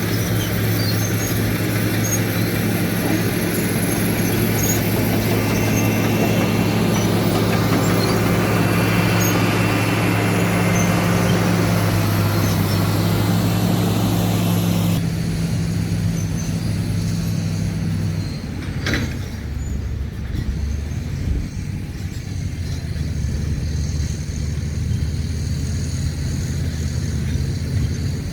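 Caterpillar D7 bulldozer's diesel engine running steadily. About three-quarters of the way through, its tone drops lower, with a single sharp click just after.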